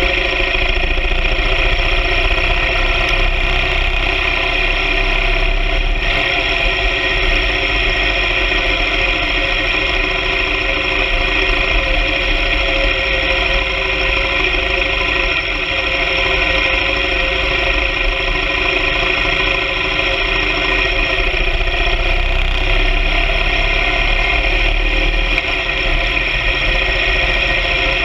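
Engine of a BMW R 1200 GS Adventure sidecar rig running at a steady speed under way, with a constant drone and rumble that does not change pitch.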